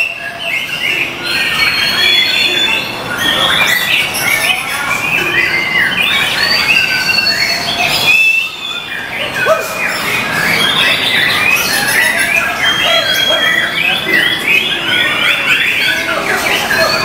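White-rumped shamas (murai batu) singing: a dense, unbroken stream of quick whistled phrases and trills, with a brief lull about eight seconds in.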